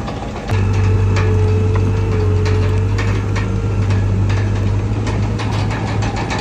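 Bulldozer's diesel engine running under load with a steady low hum, getting louder about half a second in, with frequent metallic clanks and ticks from the tracks and blade.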